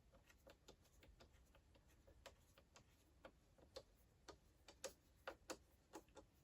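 Faint, irregular light clicks and taps from small tools and parts being handled inside an iMac's open case, a few sharper clicks past the middle.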